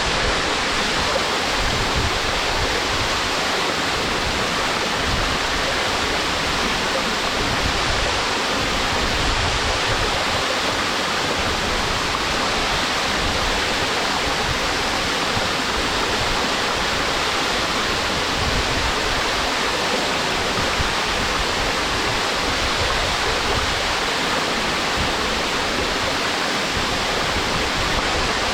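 Waterfall: the steady rush of water falling onto rocks and a pool, even and unbroken.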